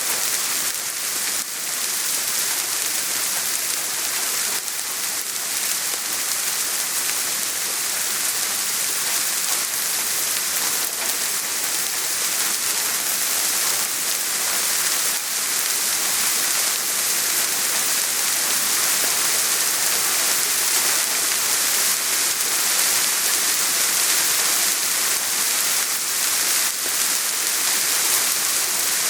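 Steady soft rain falling and pattering on surfaces, an even hiss of many small drops with no thunder.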